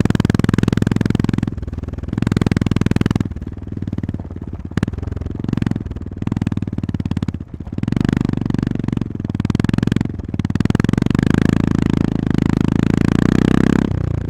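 Honda GB350S's air-cooled single-cylinder engine running under way, the rider rolling on and off the throttle: the engine note drops away briefly several times and comes back, pulling strongest near the end.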